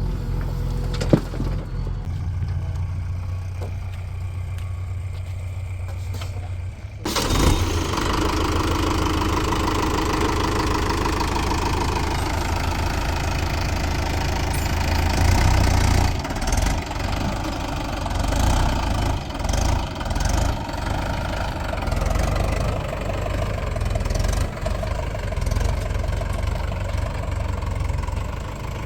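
Heavy diesel engine running low and steady, then about seven seconds in it picks up sharply. It stays louder for the rest, rising and falling as the machine works under load.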